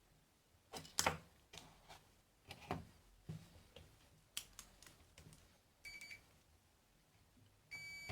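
Irregular small clicks and taps of tools and parts being handled on a workbench, then an electronic beep: a short one about six seconds in and a longer steady one starting near the end.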